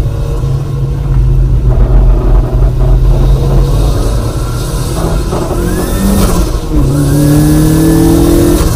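Mazda MX-5's four-cylinder engine heard from inside the car during hard driving: a steady drone through a slow corner, then revving up with rising pitch as it accelerates, a brief drop at a gear change about seven seconds in, and rising again.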